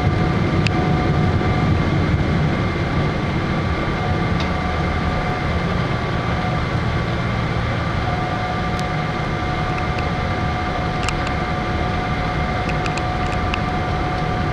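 Steady cabin noise inside a Boeing 777-300 airliner on the ground before takeoff: a low rumble with a few steady whining tones over it and occasional light clicks.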